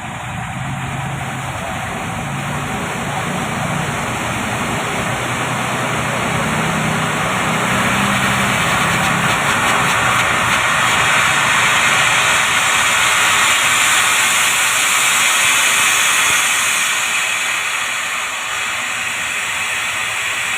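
Pressurised nitrogen and R32 refrigerant gas rushing out through refrigeration piping as the lines are flushed: a loud, steady hiss that grows brighter around the middle and eases off a little near the end.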